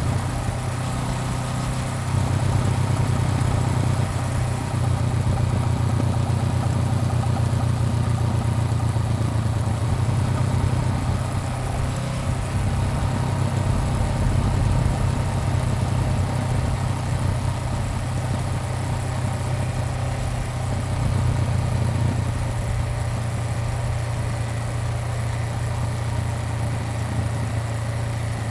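Honda CBR400R's parallel-twin engine running steadily, heard from the bike, over a steady rush of wind and road noise. It grows a little louder about two seconds in.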